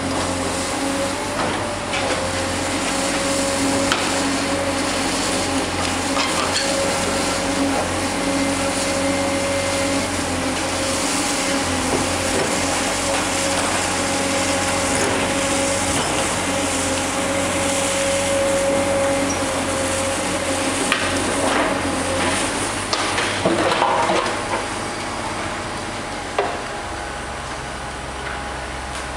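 Demolition machinery tearing into a masonry building: a steady running drone with a held whine, and scattered crunches and clatter of breaking debris. The loudest knocks bunch together a few seconds before the end, after which the sound drops a little.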